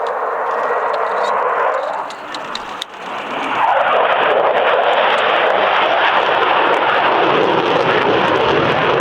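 Jet noise from an RAF Typhoon's twin EJ200 turbofans during a display pass: a loud rushing roar that dips briefly about two seconds in, then swells again about a second later and holds loud.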